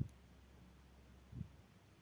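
Near silence: faint room tone, with one brief faint sound a little past halfway.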